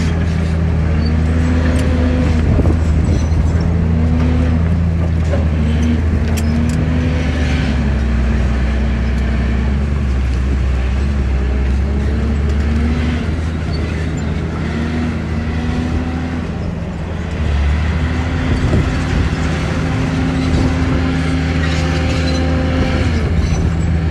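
Large diesel engine of heavy earthmoving equipment running steadily, its pitch dipping and recovering again and again as it works under load, with scattered knocks and clatter.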